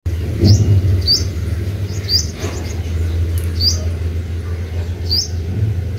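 A bird chirping: short high chirps, each falling in pitch, repeated about every second over a steady low rumble.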